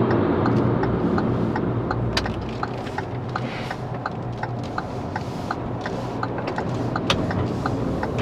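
Steady road and engine noise inside a moving car's cabin, easing slightly, with a car's turn-signal indicator ticking evenly about two to three times a second.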